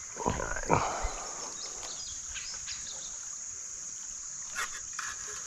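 Steady high-pitched drone of insects, with a short, louder animal-like call in the first second and a few faint chirps after.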